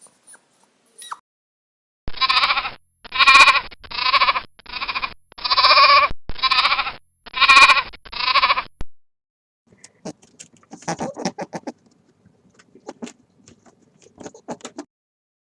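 Sheep bleating: eight loud bleats, each about half a second long, in quick succession. They are followed by fainter, irregular rapid clicking noises.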